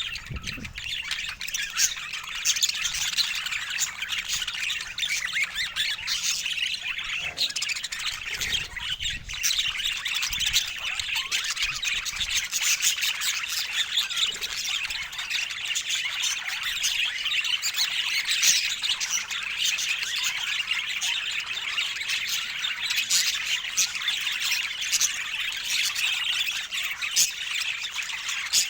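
Budgerigars chattering, a busy unbroken stream of high chirps and squawks.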